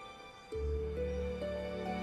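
Soft background music: quiet held notes, then about half a second in a fuller layer of sustained low notes enters, with a melody line stepping upward in slow held tones.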